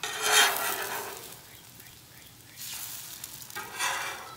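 Eggs sizzling on a Blackstone propane flat-top griddle, with a metal spatula scraping across the steel cooktop. The sizzle swells loudly twice: once right at the start, then again about two and a half seconds in.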